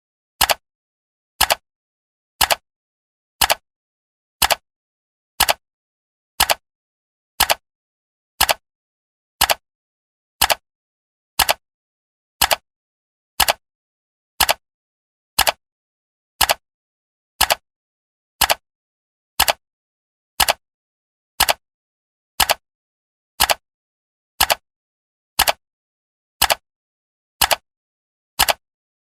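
Clock ticking sound of a countdown timer: one sharp tick every second, perfectly even, with silence between ticks.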